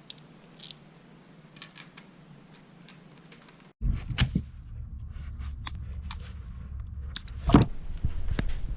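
Light clicks and clinks of small hard parts or tools being handled, with a steady low hum joining about four seconds in and a louder knock near the end.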